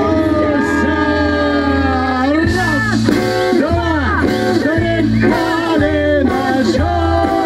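Live band playing a folk song between sung lines: held notes over a steady bass, then a wavering, ornamented melody from about two and a half seconds in.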